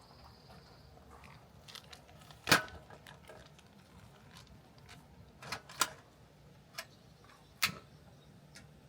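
A few scattered sharp clicks and knocks over a quiet background, the loudest about two and a half seconds in and several smaller ones later.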